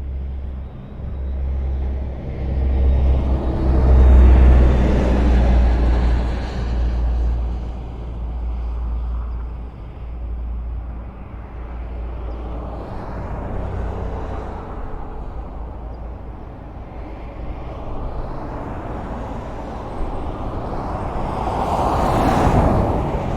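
Highway traffic: a steady low rumble of tyres and engines, with vehicles passing one after another. One loud pass-by swells and fades about four seconds in, and another near the end.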